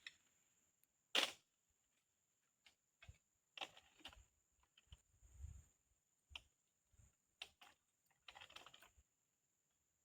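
Scattered sharp clicks and knocks with near silence between them, the loudest about a second in and a short crackly patch near the end.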